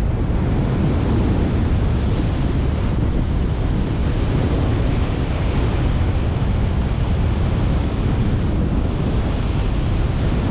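Wind rushing over and buffeting the microphone in flight under a paraglider: a steady, loud rush of air with a rumbling low end.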